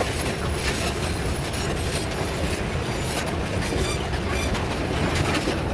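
Loaded metre-gauge freight train's boxcars rolling past, a steady rumble with the wheels clacking over the rail joints.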